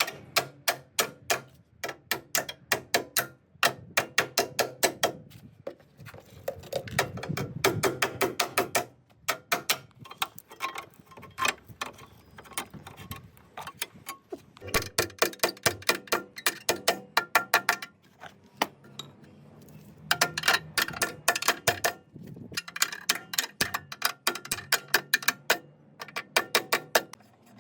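Hand ratchet wrench clicking in quick runs of about five clicks a second, stopping and starting again several times as a fastener is turned.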